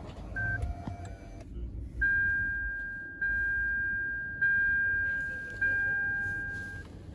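Dashboard chime of a 2010 Lexus RX 450h as the hybrid is powered on with the push-button start: a short beep and a few brief tones, then one chime four times, about 1.2 seconds apart, each fading away.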